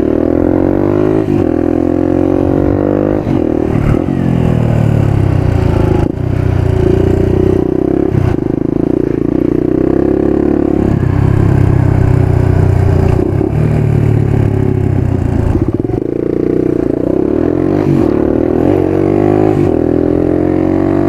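Motorcycle engine running under way, its revs rising and falling several times through gear changes.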